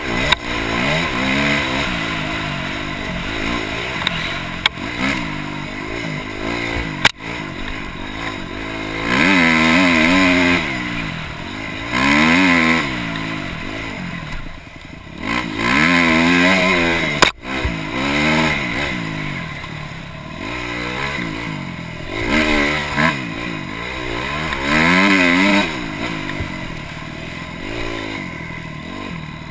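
Dirt bike engine being ridden hard, revving up and dropping back over and over as the throttle is opened and closed, with loud surges every few seconds. Two sharp knocks stand out, about seven seconds in and again past the middle.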